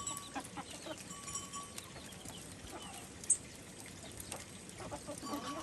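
Farmyard chickens clucking in scattered short calls, with small clicks and one short, sharp high chirp a little past three seconds in.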